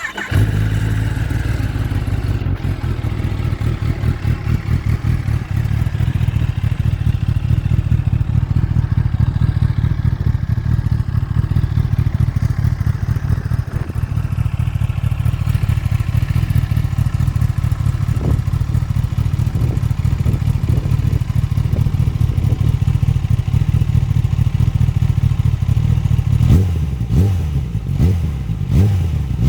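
Kawasaki ZX-10R inline-four with an Akrapovic exhaust starting up and settling into a steady idle. Near the end the throttle is blipped several times, the revs rising and falling quickly.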